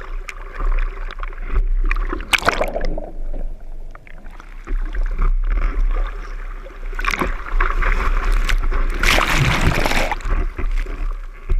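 Sea water sloshing and splashing around a surfboard as it is paddled out through typhoon swell, with short splashes and a longer rush of water about nine seconds in.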